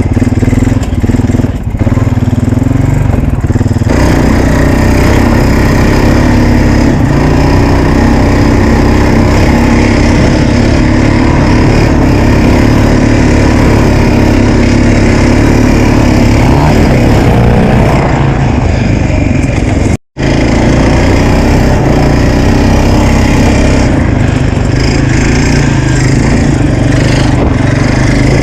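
Honda 350's engine running loud and steady. The sound cuts out completely for a moment about twenty seconds in, then the engine carries on.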